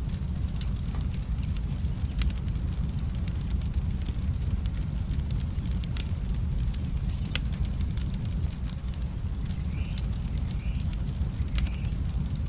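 Wood fire crackling, with irregular sharp pops and snaps, the loudest about seven seconds in, over a steady low rumble.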